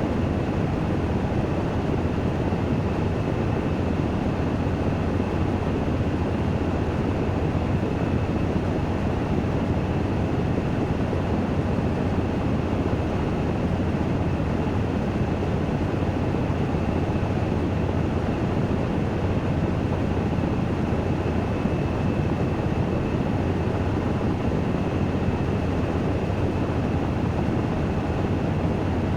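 Washing machine spinning in its spin cycle, a steady, unchanging rumble with a faint high whine above it, about fifteen minutes into the run.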